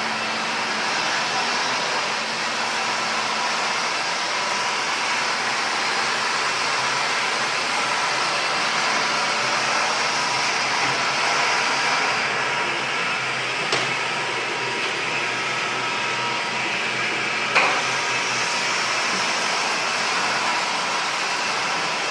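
Wet floor-scrubbing machine running with a steady motor and suction noise, with two brief knocks in the second half.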